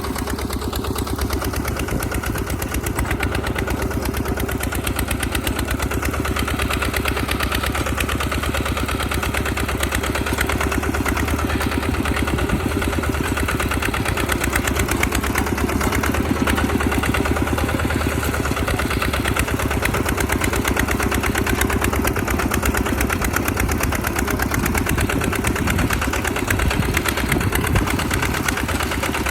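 Tractor engine running steadily with a fast, even beat while plowing a field.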